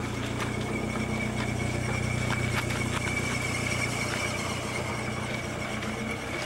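A vehicle's engine idling steadily, with a few light clicks over it.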